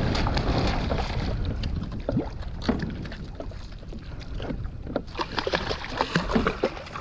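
Kayak on the water: water sloshing and splashing with small knocks on the hull, many short sharp sounds after about two seconds. Wind rumbles on the microphone at the start.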